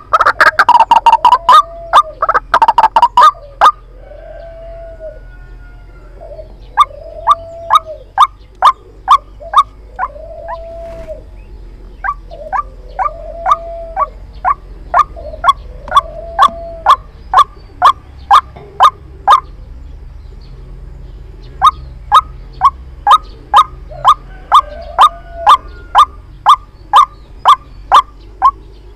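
White-breasted waterhen calling from a decoy recording. A dense run of loud notes opens it, then bouts of sharp repeated notes come about two a second, alternating with lower, arched notes, with brief pauses between bouts.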